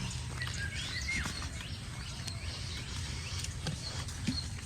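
Birds chirping, many short quick calls overlapping, over a steady low background rumble.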